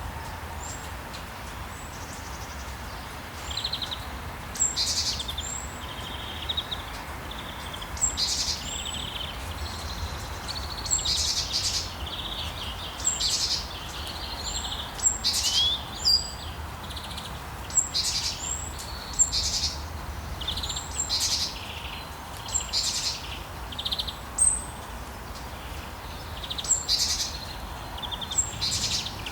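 Songbirds chirping over a steady hiss of rain, with short high-pitched calls every second or two.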